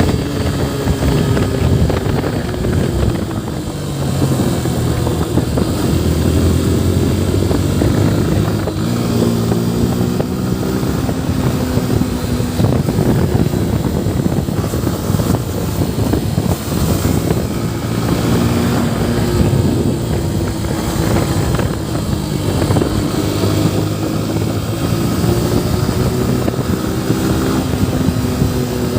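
Yamaha FZ V3's 149 cc single-cylinder engine running under way, its pitch rising and falling as the revs change through the gears, over a constant rush of wind and road noise.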